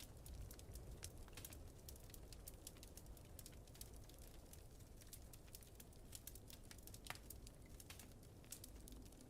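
Wood fire crackling in a fireplace: a dense run of small sharp pops, one a little louder about seven seconds in, over a low steady rumble.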